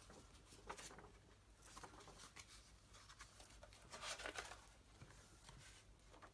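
Faint rustling of paper pages being turned and handled, from a thin old brochure, with a slightly louder rustle about four seconds in.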